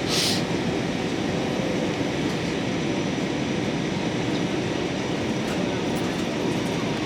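Steady roar of a jet airliner's cabin noise in flight, with a short hiss right at the start.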